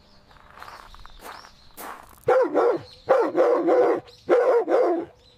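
A dog barking in a run of about five loud barks in three quick bursts, starting about two seconds in; the barks are an alert, praised right after as a good alert.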